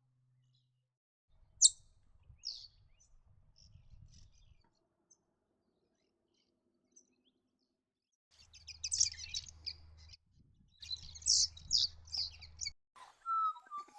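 Fairy martins calling: a few sharp high chirps early, then two bouts of rapid high-pitched twittering in the second half. Near the end, a lower call with falling notes begins.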